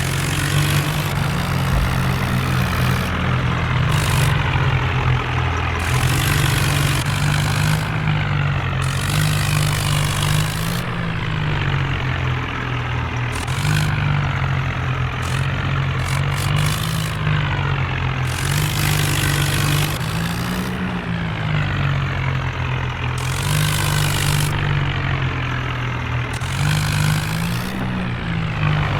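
Tractor diesel engine running hard under heavy load, its pitch swelling and dipping every few seconds, with bursts of hiss coming and going over it.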